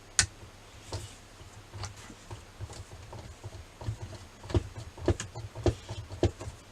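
Small clicks and taps of a screwdriver and screw against the plastic chassis of a radio-controlled car as the motor is screwed down. Irregular, sparse at first, then louder and more frequent from about four seconds in.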